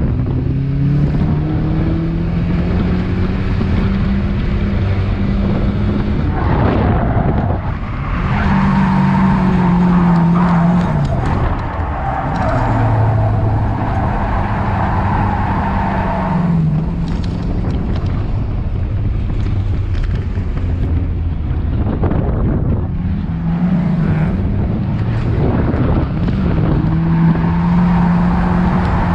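Drift car engine held at high revs for seconds at a time, its pitch dropping and climbing again several times, with tyre noise from the car sliding.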